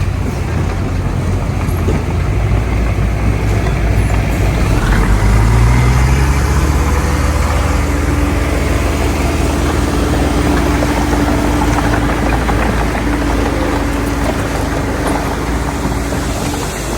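Heavy diesel earthmoving machinery running under load, the engine climbing in pitch and getting louder about five seconds in. A steady mid-pitched tone then holds over the rumble until near the end.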